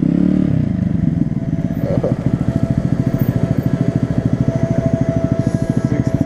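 Honda Grom's 125 cc single-cylinder engine running at low speed, an even rapid chugging, easing off right at the start.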